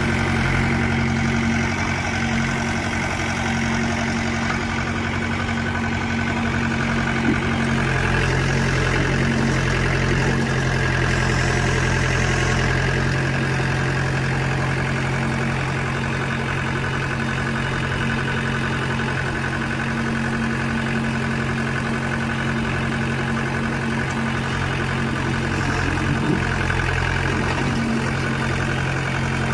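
Mahindra tractor's diesel engine running steadily at a constant speed.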